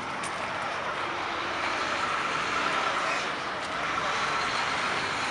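A steady rushing noise with no distinct events, growing slightly louder about two seconds in.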